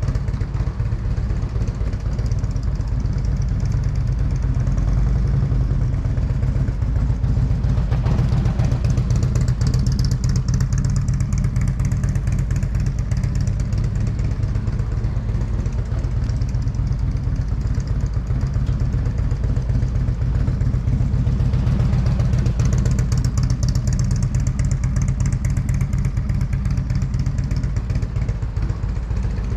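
Motorcycle engine running at low speed through slow, tight U-turns. Its steady low rumble swells twice, about eight seconds in and again about twenty-two seconds in.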